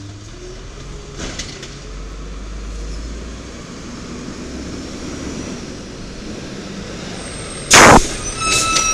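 1993 WhiteGMC diesel garbage truck running with a steady low rumble. Near the end comes a loud, short hiss of air, typical of an air brake release, followed by a thin high squeal.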